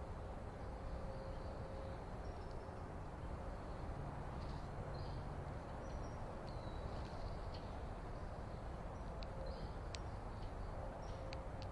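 Small birds chirping and twittering faintly and intermittently over a steady background hiss of outdoor noise, with a few sharp ticks near the end.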